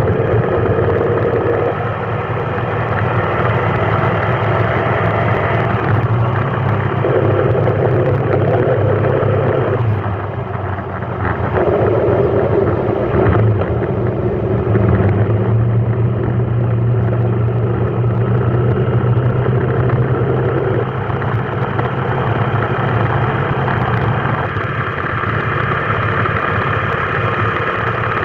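Vehicle engine running at low speed in a traffic jam, a steady low hum whose pitch and level shift now and then.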